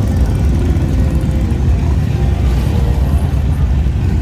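Steady low rumble of motorcycle engines and street traffic, with no single engine standing out.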